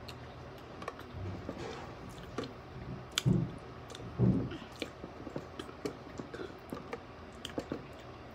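Close-miked chewing of toast, with frequent short wet clicks and squishes from the mouth. There are two louder low thumps about three and four seconds in.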